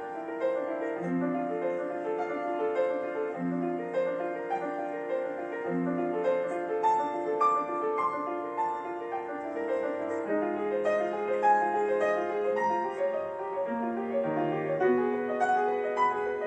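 Solo piano playing a classical-style piece: a flowing stream of many short notes in the treble over repeated, longer-held bass notes.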